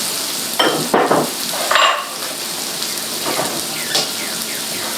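Sliced mushrooms and garlic frying in butter in a hot sauté pan: a steady sizzle, with a few short louder sounds about a second in and again just before two seconds.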